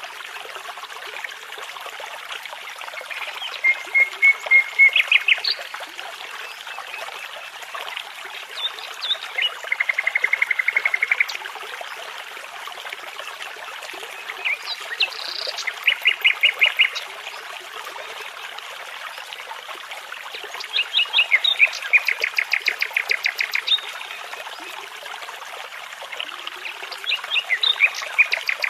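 Nightingale singing in separate phrases of rapidly repeated notes, about five phrases with pauses between, over the steady rush of a babbling brook.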